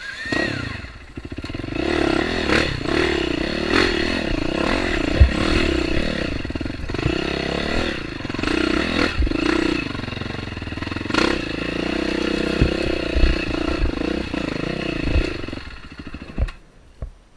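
Dirt bike engine running on a trail, its revs rising and falling as it is ridden, with a few sharp knocks and clatter from the bike over rough ground. The engine fades out near the end.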